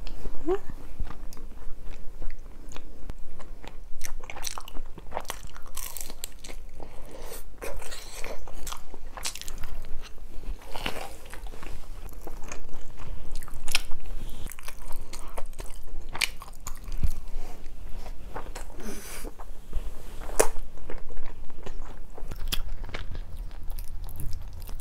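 Close-miked eating sounds of a mouthful of spicy tteokbokki and fried twigim being chewed: irregular crisp crunches and wet mouth clicks.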